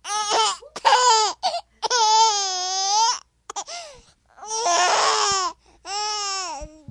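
A baby crying in a series of high-pitched, wavering wails with short breaths between them. The longest wail comes about two seconds in, a rougher, hoarse one around five seconds in, and it trails off into a lower whimper at the end.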